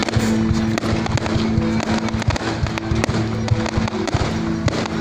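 Fireworks going off in quick succession, many sharp bangs and crackles a second, over music with steady held notes.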